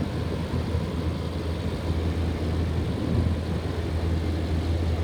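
1998 air conditioner running, heard from the outside where its hot air is blown out: a steady low hum with an even rush of fan air. It is running well.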